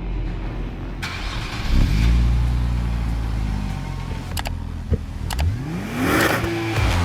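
Sports car engine running with a deep, steady note, then revving up with a rising pitch about six seconds in.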